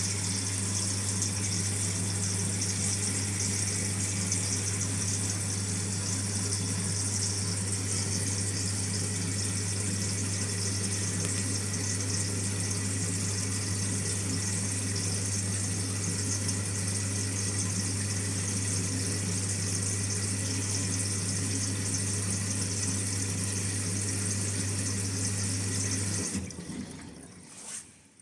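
Hotpoint-Ariston washing machine taking in water: a steady rush of running water over a constant low hum, stopping abruptly near the end.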